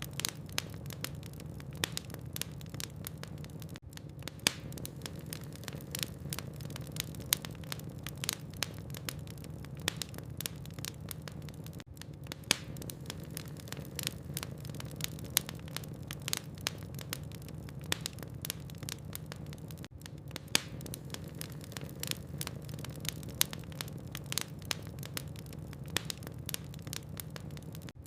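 Wood logs burning in a fireplace: a dense, irregular crackle of sharp pops and snaps, some much louder than others, over a steady low hum of the fire.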